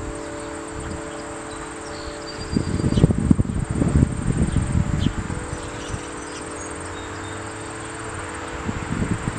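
Outdoor ambience of insects trilling steadily at a high pitch, with gusts of wind buffeting the microphone from about two and a half to five and a half seconds in and again near the end. A few faint short chirps come about two seconds in.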